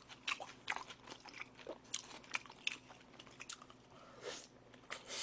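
Chewing and crunching a mouthful of fried battered pork (tangsuyuk): a run of small, sharp crunches and mouth clicks.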